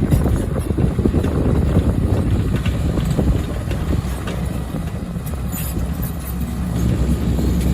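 Heavy earthmoving machinery: a diesel engine running with a dense low rumble, and scattered short knocks and clanks over it.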